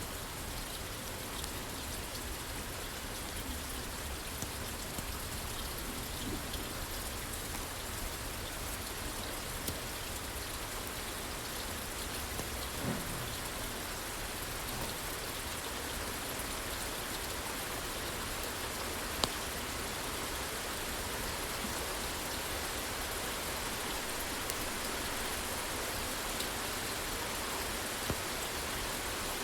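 Steady rain falling on a roof, with a few scattered sharp pops from a crackling fireplace, the loudest about two-thirds of the way through.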